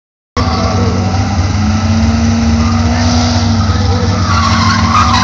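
Drag-racing car engines running loud with tyre squeal. The sound cuts in after a short silence.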